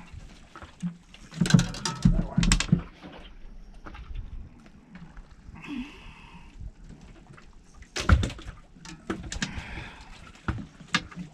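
Irregular knocks and clunks on a small fishing boat, with a cluster of heavy ones about two seconds in and another loud knock about eight seconds in, as gear and catch are handled aboard.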